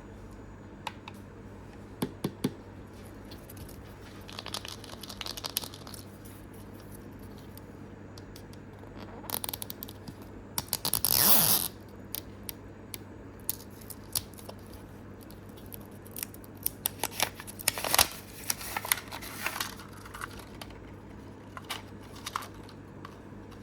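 Small plastic toy packaging, Mini Brands capsule parts and blind bags, being handled and opened: scattered light plastic clicks and rustles, with a louder rustling burst lasting about a second near the middle.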